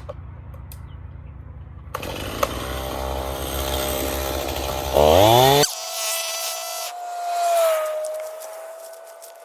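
Stihl MS271 50 cc two-stroke chainsaw idling, then cutting into wood for about three seconds, the engine revving up in a rising whine near the end of the cut. About halfway through, the saw sound cuts off abruptly, leaving a single steady tone.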